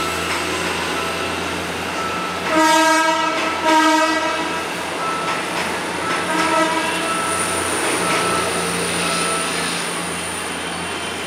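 Philippine National Railways diesel multiple-unit train running past and away, its engine running steadily. Its horn sounds twice about two and a half seconds in: a longer blast, then a shorter one a moment later.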